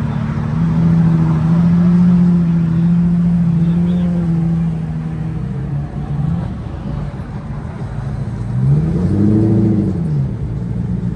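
A car engine running steadily at low revs, then revved once near the end: the pitch rises and falls back.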